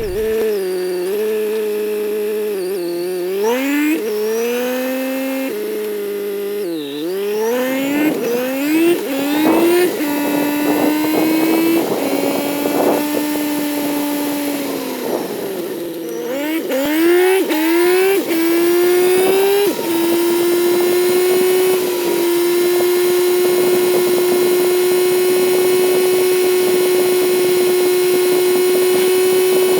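Kawasaki Z900 inline-four engine pulling through the gears, its pitch climbing and dropping back at each upshift several times, then holding a steady cruise for the last ten seconds.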